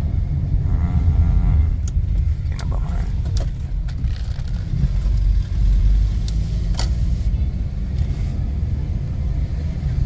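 Steady low rumble of a car on the move in traffic, with a few short clicks and knocks over it.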